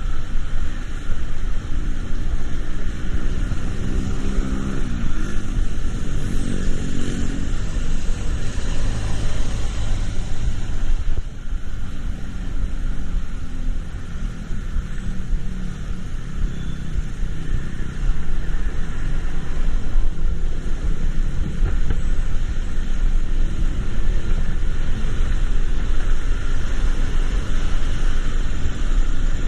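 Motor vehicle driving in traffic: a steady low engine and road rumble, with the engine note rising as it accelerates a few seconds in and again near the middle.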